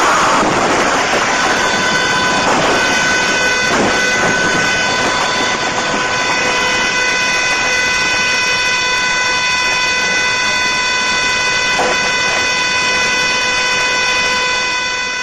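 Vehicle horn blaring, one steady tone held without a break, over loud rumbling road and vehicle noise. The horn comes in about a second in, and a few knocks sound along the way.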